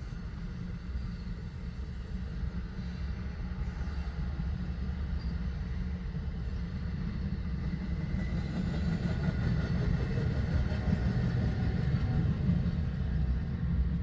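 New Jersey Transit train passing with a steady low rumble that grows louder, loudest about three-quarters of the way through.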